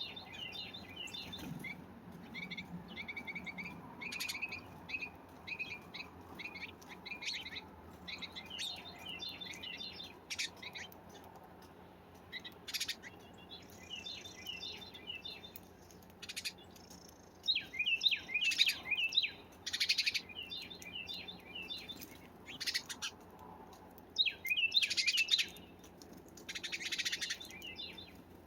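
Small wild songbirds chirping and calling in quick repeated series, with a few short noisy flutter-like bursts among them; the calls grow louder and busier in the second half.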